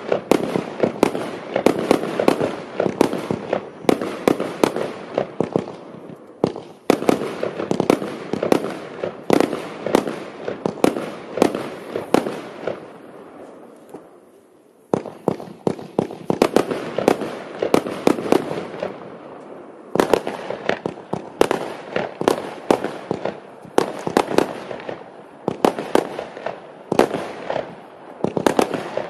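Klasek 'Fireworks show 212' multi-shot firework battery firing: rapid runs of sharp bangs as its shots launch and burst, broken by a lull of about two seconds halfway through.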